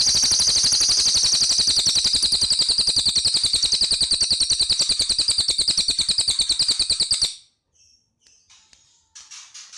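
Cililin (velvet-fronted nuthatch) giving a long, very fast rattling trill of high, sharp notes, about a dozen a second, the 'machine-gun' call that breaks off abruptly about seven seconds in. A few faint short calls follow near the end.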